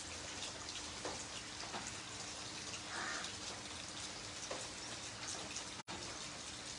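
Steady rain falling on wet concrete pavement, a dense patter of drop splashes, broken by a split-second dropout near the end.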